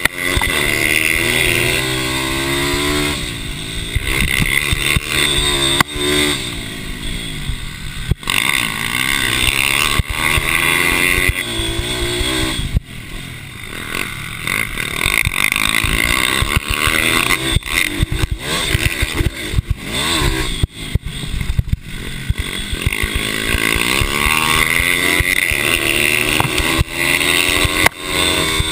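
Mini bike racing engines revving hard, their pitch rising and falling over and over as the bikes accelerate and back off.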